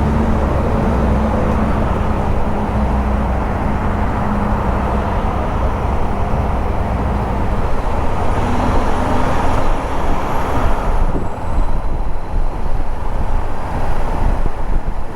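2014 Honda CB500X's parallel-twin engine running at low, steady revs in slow traffic, its pitch shifting about halfway through, over road and traffic noise.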